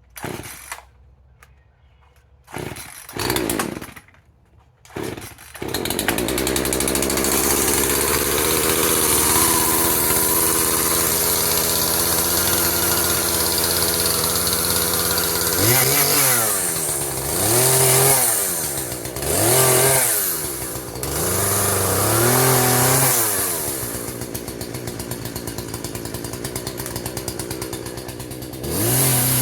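Husqvarna 120 two-stroke chainsaw being started: a few short pulls on the cord, then it catches about five seconds in and runs steadily, revved up and back down about five times in the second half.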